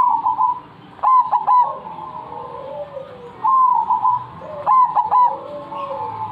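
A bird singing in full voice, repeating a short phrase twice: a few sharp rising notes followed by clear, slightly falling whistled tones.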